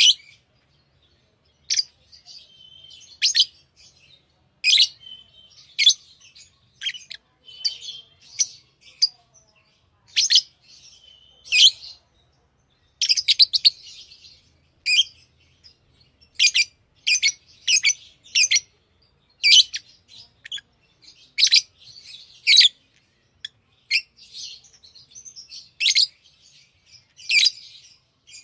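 Pet lovebirds chirping: sharp, high-pitched chirps about every one to two seconds, with softer chattering between them.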